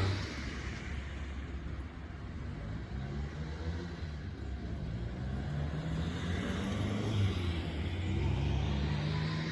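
Alpico Kotsu 20100 series electric train running with a steady low hum. A motor whine rises slowly in pitch through the second half.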